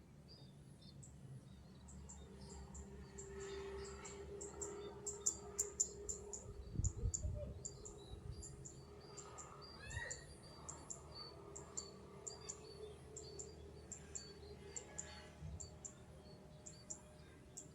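A small bird calling over and over with short, high chirps, two or three a second, over faint rural background. A low hum comes in for a few seconds in the middle, and a few low rumbles around the middle are the loudest moments.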